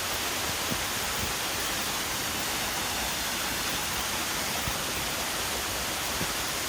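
Half-frozen waterfall rushing steadily: a constant, even hiss of falling water.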